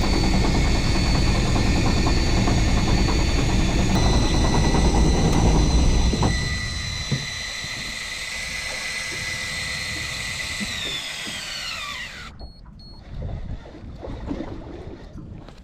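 A motor running with a steady high whine over a low rumble. The rumble drops away about six seconds in, then the whine falls in pitch and cuts off about twelve seconds in as the motor winds down and stops.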